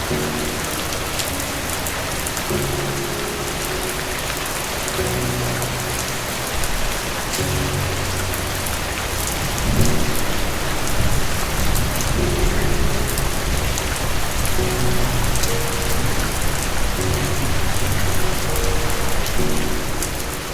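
Steady rain, with a low rumble of thunder that swells from about halfway through. Soft music with slow, held chords plays underneath.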